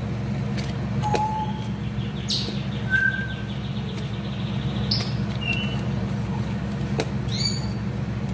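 Short bird-like chirps and tweets at differing pitches, scattered a few seconds apart, over a steady low hum, with a few faint clicks.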